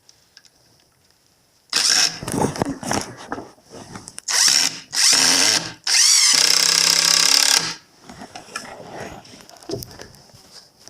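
Power drill running in four bursts, the last and longest for nearly two seconds near the middle.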